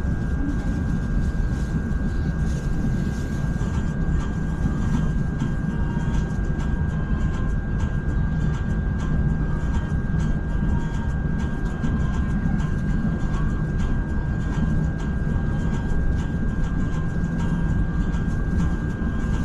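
Steady low rumble of an ETS electric train running along the track, heard from inside the carriage, with a thin steady high whine over it.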